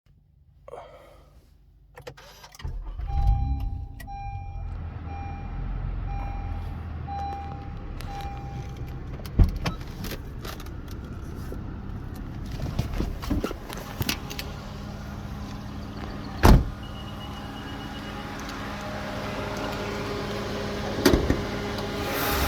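2013 Honda Accord's 3.5-litre V6 starting about three seconds in and then idling. A dashboard chime beeps steadily for several seconds after the start, and a few sharp knocks stand out, the loudest about two-thirds of the way through.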